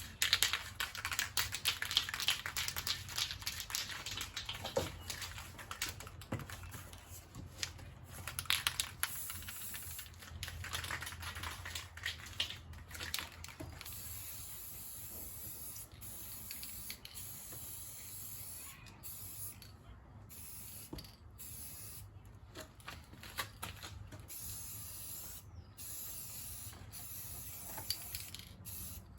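Aerosol spray-paint can spraying in several hissing bursts, the longest at the start and a few more through the first half, then only faint ticks and clicks.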